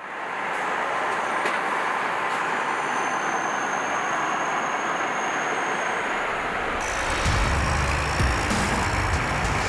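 Steady running noise of a heavy vehicle. About seven seconds in, a deeper engine rumble comes in with a few sharp knocks.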